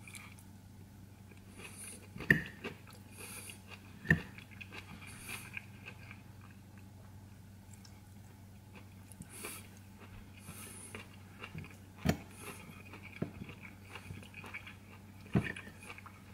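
A person chewing broccoli close to the microphone, with a few sharp clicks of a metal fork against a plate or teeth, over a steady low hum.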